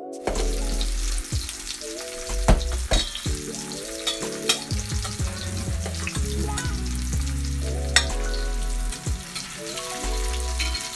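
Potato wedges sizzling in hot oil in a stainless steel frying pan, with a few sharp pops and clicks, the loudest about two and a half seconds in and again near eight seconds. Soft background music with notes changing in steps plays underneath.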